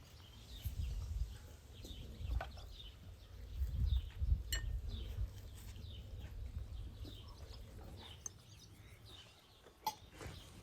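Farmyard ambience: scattered short bird and poultry calls over a low rumble, with a few sharp clicks.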